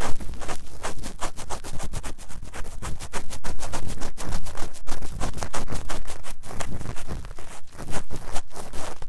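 Ear-cleaning tool scratched fast and hard inside the ear of a 3Dio binaural microphone: rapid rough strokes, several a second, close and loud.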